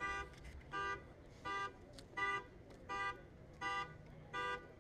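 Car horn sounding in short, evenly spaced blasts, about seven of them, a little more than one a second: a car alarm going off.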